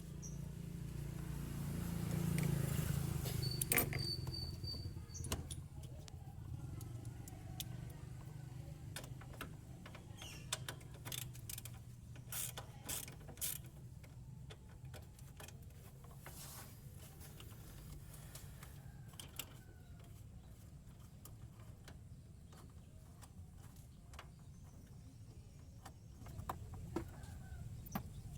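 Scattered clicks and creaks of hand tools being worked on the engine, over a low steady hum that swells briefly near the start.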